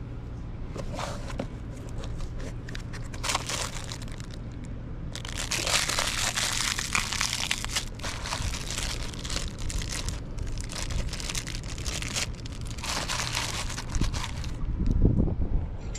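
Irregular crinkling and rustling noise, coming and going in patches with a long stretch in the middle, over a steady low hum.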